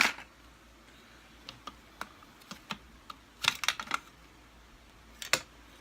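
Small hard parts of a vacuum cleaner's headlight fitting clicking and tapping as they are handled during disassembly. There is a sharp click at the start, scattered light ticks, a quick cluster of clicks about three and a half seconds in, and one more click near the end.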